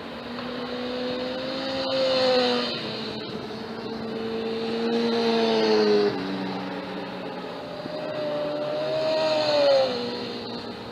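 Track motorcycles accelerating hard past, one after another: three engine notes in a row, each climbing in pitch and loudness, then dropping sharply as the bike goes by.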